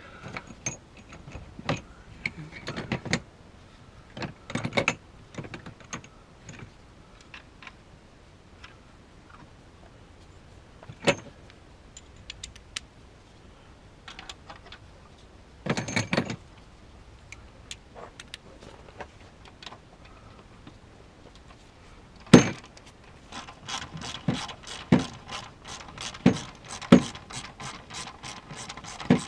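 Wrenches and metal parts clinking and knocking during reassembly under the hood, with a sharp knock about three-quarters of the way in. Near the end comes a fast, even run of clicks from a ratchet wrench running bolts in.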